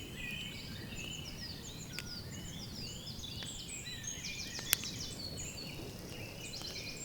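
Several birds singing and chirping in woodland over a low background hiss, with one sharp click about three-quarters of the way through.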